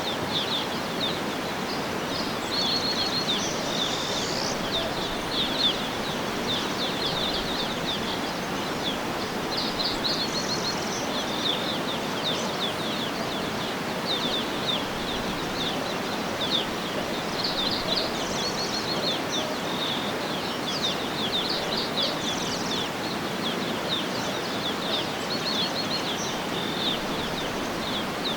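Small songbirds chirping and trilling throughout, with quick repeated-note trills now and then, over a steady, even rushing background.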